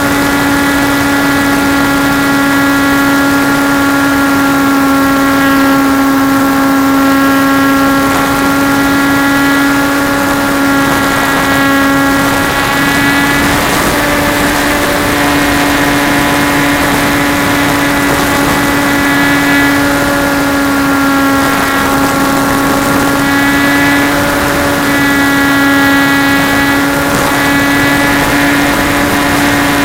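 Radio-controlled Trojan T-28 model plane's motor and propeller running in flight, a steady whine whose pitch shifts slightly about halfway through.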